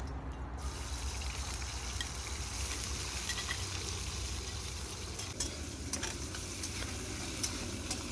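Seasonings sizzling as they are stir-fried in a pan, the hiss starting about half a second in, with a few sharp clicks of the stirring utensil against the pan.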